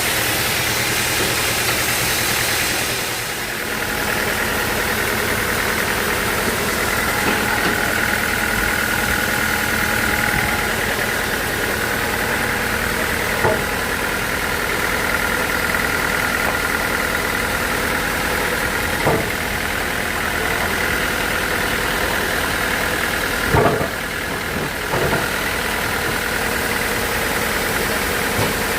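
Sawmill machinery running steadily, with an engine-like drone and a steady high whine that strengthens after several seconds. A few sharp knocks come in the second half.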